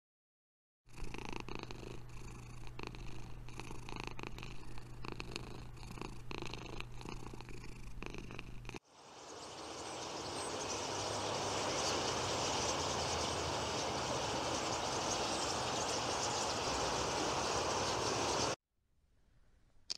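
Two cats purring: a steady low purr with many small clicks, which cuts off abruptly about nine seconds in. It is followed by the dense, steady rush of a large flock of small birds, which swells in over a second or two, is slightly louder than the purring, and stops suddenly near the end.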